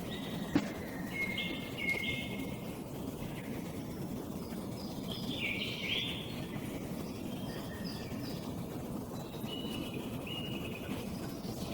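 A songbird singing short phrases, some repeated twice, over a steady low background rumble. One sharp click comes about half a second in.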